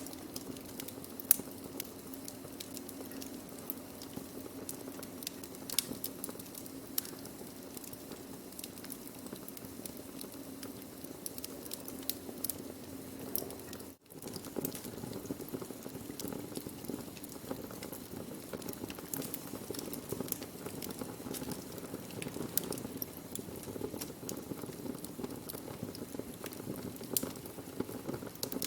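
Wood fire burning with a steady low rush and irregular sharp crackles and pops. The sound drops out for an instant about halfway through.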